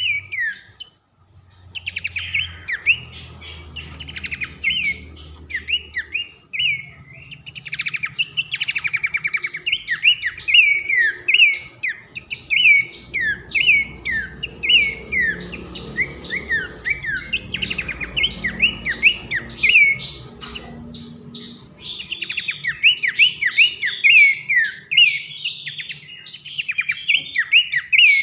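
Pelanduk semak (Horsfield's babbler) singing a fast, loud run of whistled notes that slide downward, mixed with quick rattling trills.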